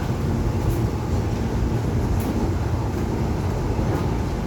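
Interior running noise of a Korail Seoul Subway Line 1 electric train in motion: a steady low rumble from the wheels on the rails, with a few faint high clicks.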